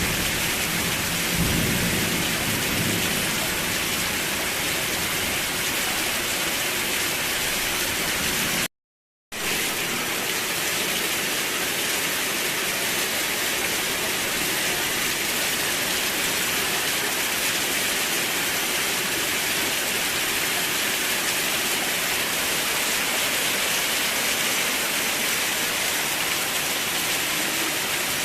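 Steady heavy rain, an even hiss, with a low thunder rumble dying away in the first few seconds. About nine seconds in the sound cuts out completely for half a second, then the rain resumes without thunder.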